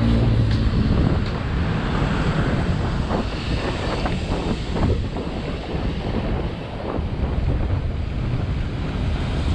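Loud wind buffeting the microphone of a helmet- or bike-mounted action camera on a moving bicycle, a steady low roar with a few faint ticks.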